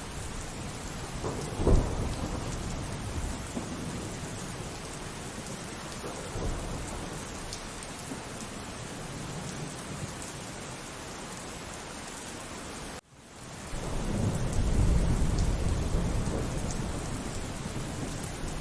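Steady rainfall with thunder. A sharp thunderclap comes about two seconds in; in the second half, after the sound cuts out for a split second, a long low rumble of thunder swells and slowly fades under the rain.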